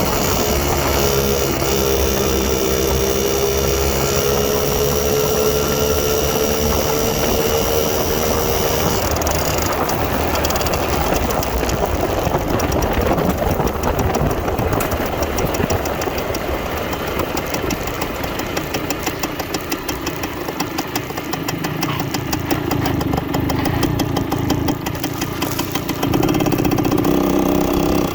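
1969 Harley-Davidson Aermacchi MLS-125 Rapido's small two-stroke single-cylinder engine running on the road. Its note climbs slowly as it pulls for the first several seconds, changes about nine seconds in to a rougher, rapid pulsing, eases off a little later on, and picks up again near the end.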